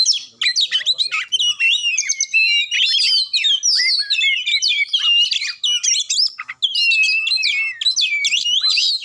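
Oriental magpie-robin (kacer) singing an excited, aggressive full song: a fast, unbroken run of varied whistles, slurred notes, trills and harsh notes, with a brief break about six and a half seconds in.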